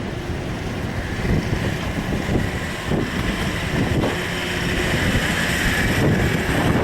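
Strong wind buffeting the microphone: a loud, steady rumbling gust noise.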